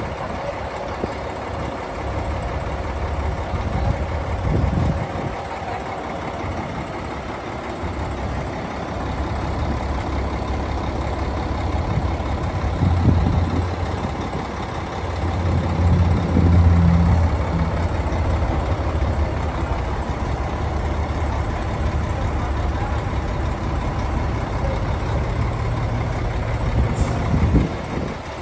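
Hyundai tractor head's 12.3-litre six-cylinder diesel engine running steadily, with a deep low hum. It gets louder for a few seconds about halfway through.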